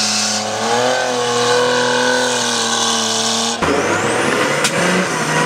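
Competition trial truck's engine running hard under load. Its pitch rises a little about a second in and then holds steady. It cuts off suddenly after about three and a half seconds, and a rougher, noisier engine sound follows.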